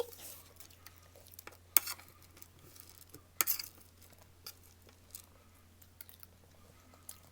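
Eating sounds: a few sharp crunches and clicks, as from crisp snacks bitten and a spoon against a plate, the loudest about two seconds and three and a half seconds in, over a faint low steady hum.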